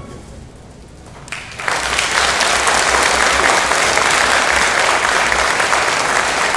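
The orchestra's final chord fades out, and about a second and a half later the audience breaks into applause that continues steadily.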